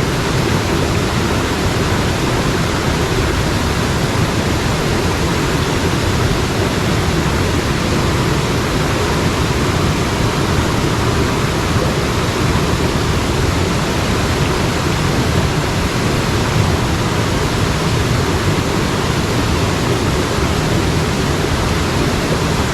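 Mountain stream water rushing steadily, an even, unbroken roar of flowing water.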